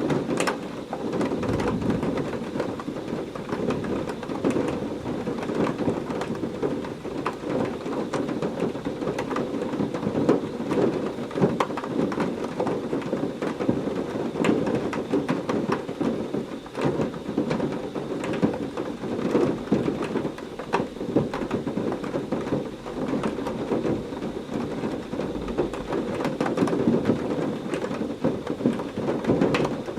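Heavy rain falling steadily, with many close drops splattering, over a low rumble of thunder.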